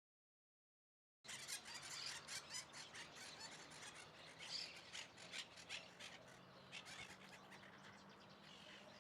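A flock of birds calling at once, a dense chatter of sharp squawks and squeals, cutting in suddenly about a second in and easing slightly toward the end.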